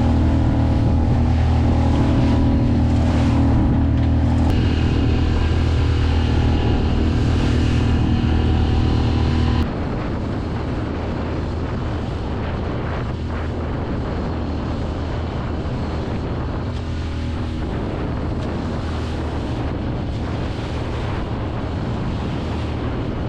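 A sailboat's motor running steadily under wind noise on the microphone and the wash of water. About ten seconds in the sound cuts abruptly to a quieter mix in which wind and water dominate and the motor hum is fainter.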